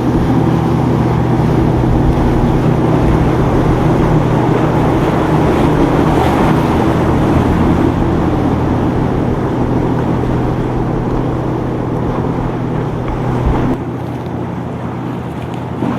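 Motorboat engines running steadily over a rushing noise of water and wind. The engine sound drops away suddenly near the end.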